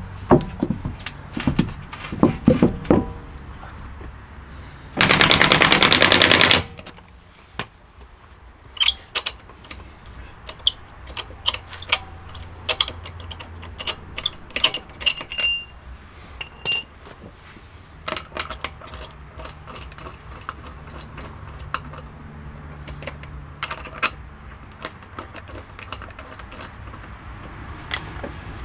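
Tools and parts being handled during car repair work: scattered clicks and knocks, with a loud burst of rapid clicking about five seconds in that lasts about a second and a half.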